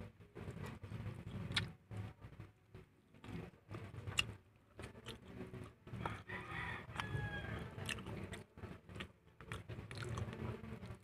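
Close-miked chewing and biting of fried chicken, with irregular wet mouth clicks and smacks.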